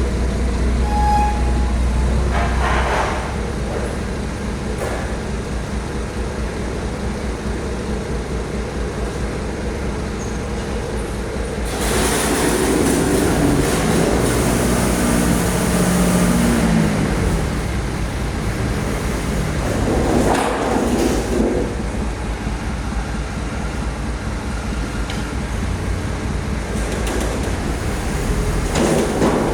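Heavy vehicle engine noise with road traffic: a steady low rumble, swelling louder for several seconds about twelve seconds in as a vehicle's engine note climbs in steps.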